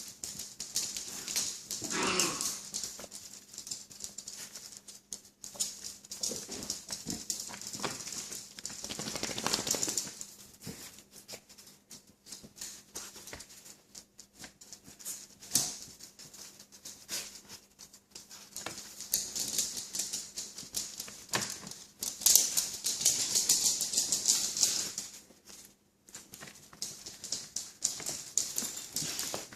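Puppies playing in a puppy pool, with bouts of dense clicking and clattering and a short whimper about two seconds in.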